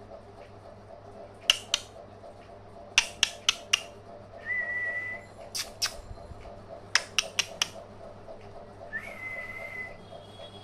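A person whistling a single held note twice, each about a second long. Between the whistles come quick runs of sharp clicks, in twos and fours.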